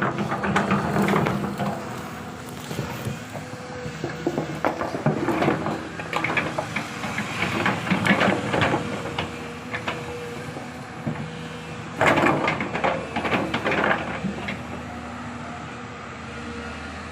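Hyundai excavator running, its engine humming steadily under repeated clanks and scraping bursts, the loudest about twelve seconds in, settling to a steadier run near the end.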